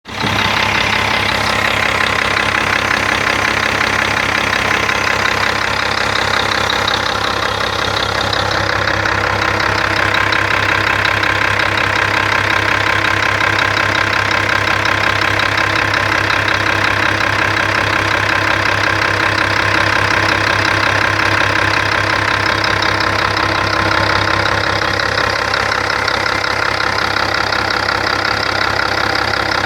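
Scania 124 truck's diesel engine idling steadily, running on an injection pump just serviced by a diesel injection shop.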